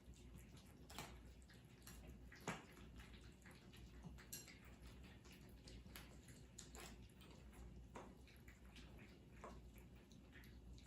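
Cats eating: faint, irregular clicks of chewing, with one sharper click about two and a half seconds in.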